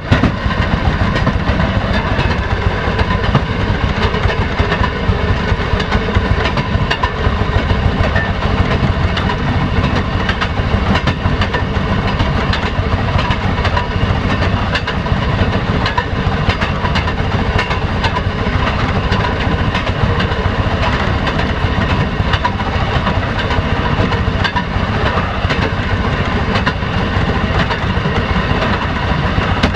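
Railway motor car (speeder) travelling along the track: its engine runs steadily under a loud, even rumble, with frequent clicks of the wheels over rail joints.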